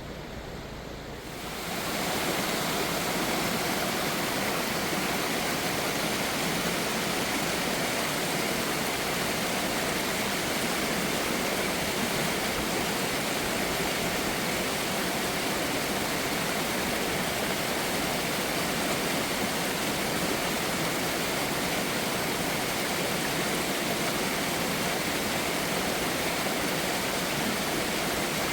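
Steady rush of flowing water, like a stream or small waterfall, starting suddenly about a second and a half in and holding an even level.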